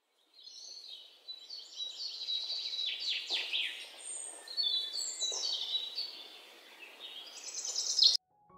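Birds chirping and singing, many short calls overlapping with quick falling whistles. It cuts off abruptly near the end, and soft piano music begins.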